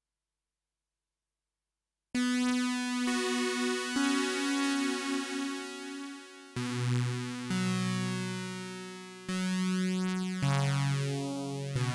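Sequential OB-6 synthesizer playing a series of sustained, buzzy low notes through its notch filter, starting about two seconds in and changing note every second or so. Near the end the notch sweeps up and back down through the upper harmonics, giving a hollow, phasing colour.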